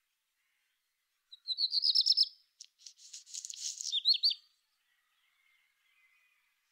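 A songbird singing one phrase of about three seconds, starting about a second in. It opens with a quick run of high repeated notes, goes into a harsh buzzy stretch, and ends with a few down-slurred notes.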